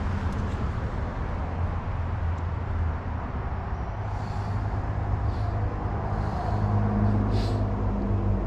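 A steady low motor hum, with a few short hissing scuffs over it from about four seconds in.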